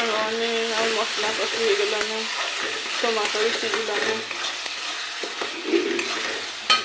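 Tomato masala sizzling and sputtering in an aluminium kadai over a gas flame while a ladle stirs it, with a sharp tap near the end.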